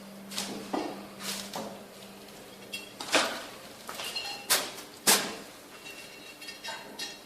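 Ceramic stove tiles and tools being handled: a string of sharp clinks and knocks, some with a short ring, the loudest two about four and a half and five seconds in.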